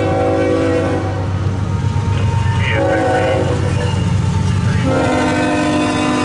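CSX freight locomotive's air horn sounding a chord: a long blast ending about a second in, a short blast near the middle, then another long blast from about five seconds in, the close of the long-long-short-long grade-crossing signal. Under it runs the steady low rumble of the diesel locomotives and train.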